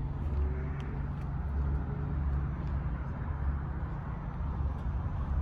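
Low, steady rumble of car engines idling, pulsing slightly, over the general noise of a busy parking lot.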